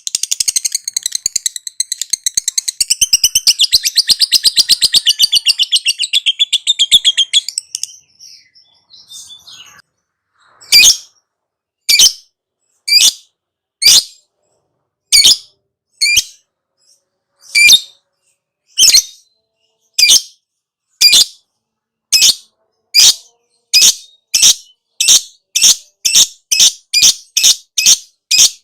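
Lovebird's long, very fast chattering trill (the 'ngekek'), which stops about seven seconds in. After a short pause, single sharp calls start about a second apart and come faster and faster toward the end.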